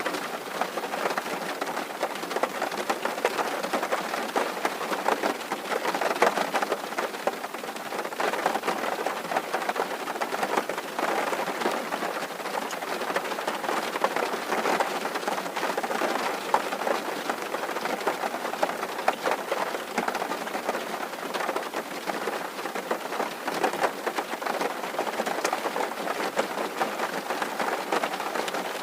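Rain on a tin roof: a steady, dense patter of countless drops hitting the metal sheeting, with no let-up.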